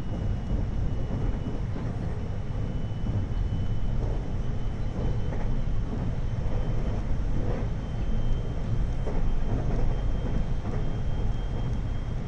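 Hapi-Line Fukui 521 series electric multiple unit running between stations, heard inside the car. A steady rumble of wheels and running gear, with a faint high whine that rises slightly in pitch and a few faint clicks.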